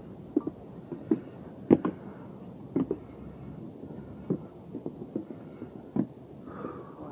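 Footsteps of hikers walking on the trail's wooden boardwalk: irregular dull thuds, one or two a second, with a few sharper knocks.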